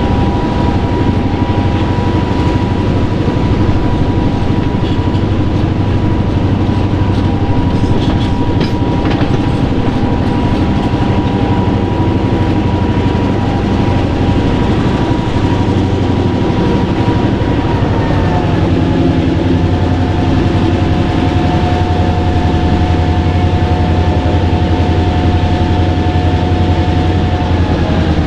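Diesel-hauled train running steadily, a loud continuous rumble with a thin whine on top that steps down in pitch about two-thirds of the way through.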